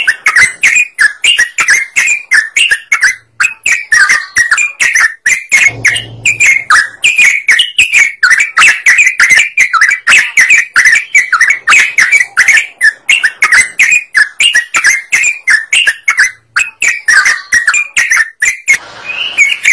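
Yellow-vented bulbul (trucukan) singing vigorously: a continuous run of rapid, bubbling, warbled notes with no pause, the kind of song played as a lure to draw other birds.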